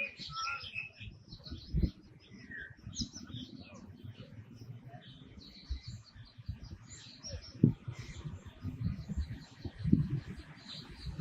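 Wild birds chirping and calling in many short, high notes, with dull low thumps now and then.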